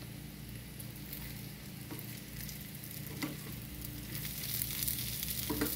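Pieces of corn tortilla and chopped onion sizzling as they fry in oil in a skillet, stirred with a slotted spoon. The sizzle grows louder in the second half, with a couple of light knocks of the spoon against the pan.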